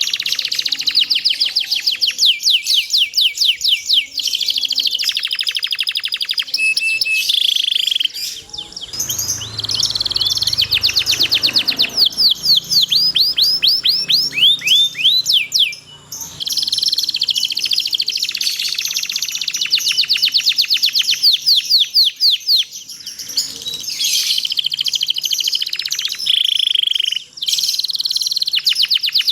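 Domestic canary singing continuously in long rolling trills of fast repeated notes, switching between phrases every few seconds, some notes sweeping in quick glides. About a third of the way in, a low rumble sits briefly under the song.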